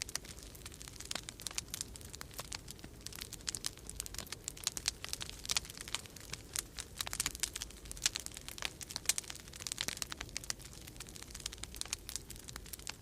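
Wood fire crackling in a fireplace, with irregular snaps and pops several times a second, over a low steady rumble of winter storm wind.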